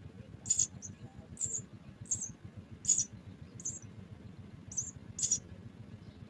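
Small bird's short, high-pitched chirps, about eight of them at uneven intervals, over a faint low hum.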